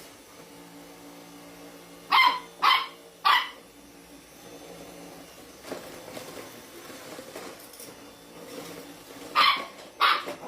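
A dog barking: three quick barks about two seconds in, then two more near the end, over a faint steady hum.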